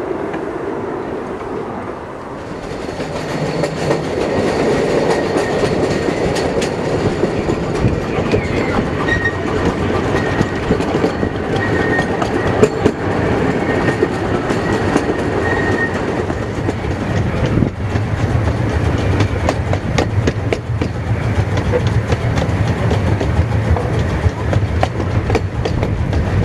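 A 15-inch gauge live steam train of freight cars behind a 2-6-0 locomotive running along the track, its wheels clicking over the rail joints.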